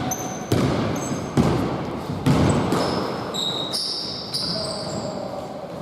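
A basketball bouncing on an indoor court floor, with three hard bounces about a second apart early on, amid many short, high-pitched sneaker squeaks.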